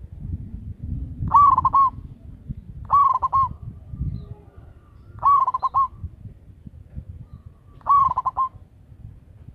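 Zebra dove (perkutut) cooing: four short phrases of quick rolling coo notes, each about half a second long and two to three seconds apart, over a steady low rumble.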